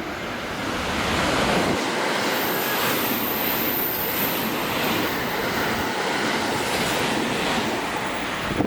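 A train running close past the platform: a loud, steady rush of wheels on rail that builds about a second in, with a thin high whine through the middle, cutting off suddenly at the end.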